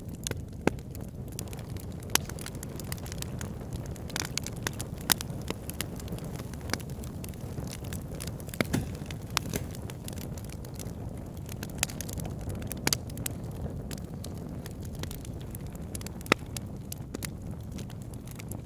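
Wood fire burning in a fireplace, crackling: irregular sharp pops and snaps over a steady low rumble, with a few louder snaps scattered through.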